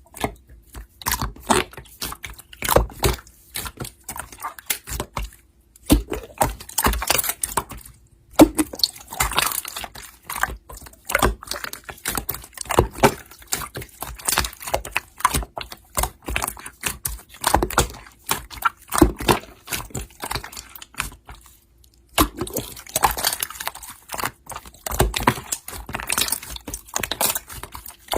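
Slime being pressed and squished by hand, giving a dense run of irregular wet clicks and crackles, with brief pauses twice.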